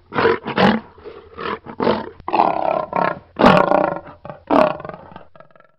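A lion roaring, a run of loud roars one after another that fade out near the end.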